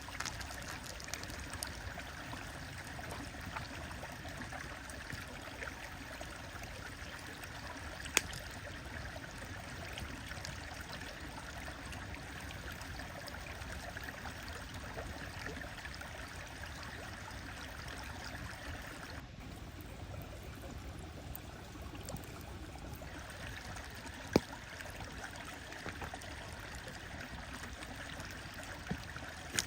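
Stream running steadily with a wood fire crackling over it: small ticks throughout and two sharp, loud pops from the fire. For a few seconds past the middle the water's hiss thins, then returns.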